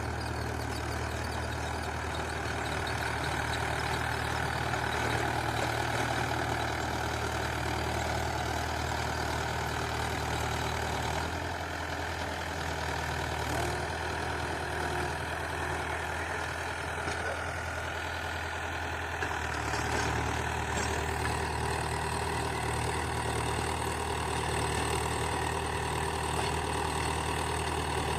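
Tractor diesel engine running steadily. Its note changes and drops slightly about 11 seconds in, then comes back up around 20 seconds.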